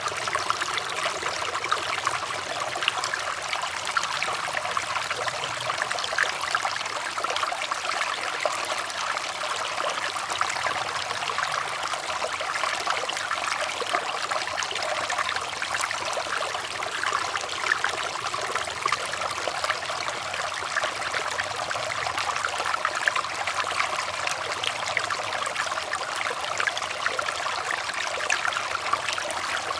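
Running water trickling steadily: a dense, unbroken patter of small splashes.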